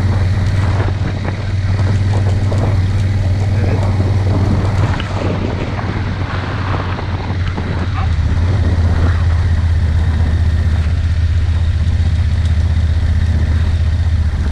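A vehicle driving, its engine and road noise making a steady low hum, with some rougher rumble in the first half.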